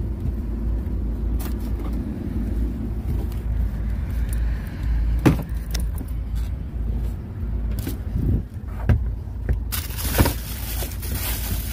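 Steady low rumble of an idling vehicle engine, with a few sharp knocks and a burst of rustling handling noise near the end.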